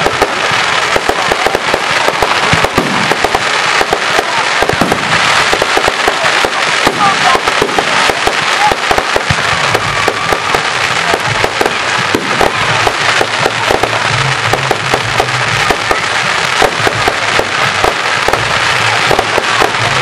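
Fireworks crackling and popping in a dense, unbroken barrage of rapid small bangs.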